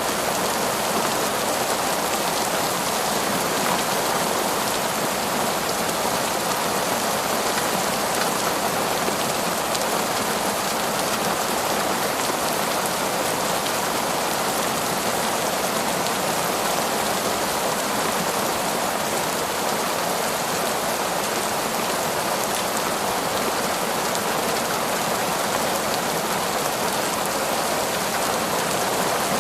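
Heavy torrential rain falling steadily: an even, unbroken hiss of downpour with no thunder.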